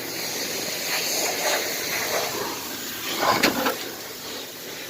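Pressure washer spray hissing steadily against a car's bodywork, with a brief louder burst about three and a half seconds in.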